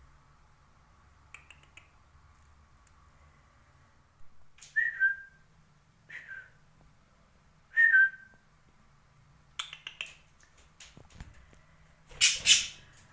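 Pet parakeet calling: three short whistled calls that drop in pitch, about a second and a half apart, then louder, harsher squawks near the end.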